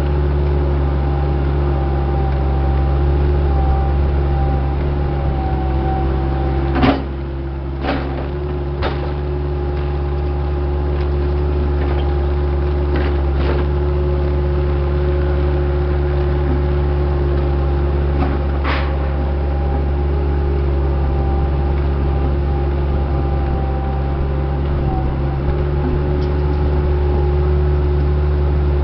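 Diesel engine of a heavy construction machine running steadily under a constant drone, with a handful of sharp knocks, the loudest about seven seconds in and others spread through the next twelve seconds.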